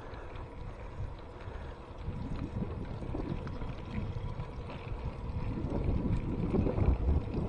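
Wind rumbling on the microphone of a camera carried on a moving bicycle, picking up about two seconds in, with road noise from the ride underneath.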